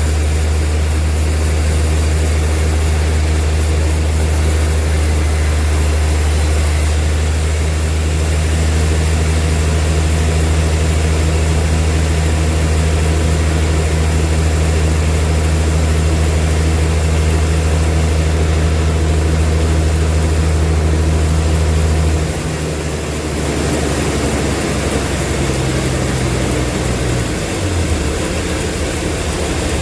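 Sawmill machinery running with a loud, steady low hum. About two-thirds of the way through, the hum drops and changes pitch, and a second, higher tone stops shortly before the end.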